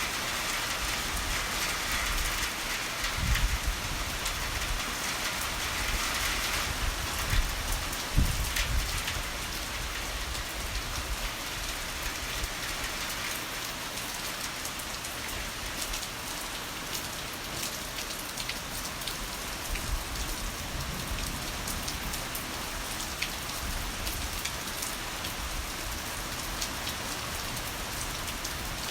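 Heavy rain falling steadily, a dense hiss of raindrops on surfaces. In the first ten seconds a few short, low rumbles of thunder rise above it, the loudest about three and eight seconds in.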